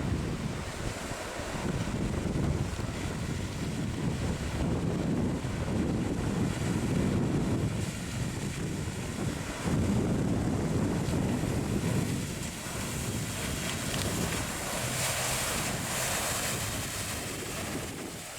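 Wind buffeting the microphone in gusts over the wash of ocean surf, with a louder hissing rush of breaking water about two-thirds of the way through.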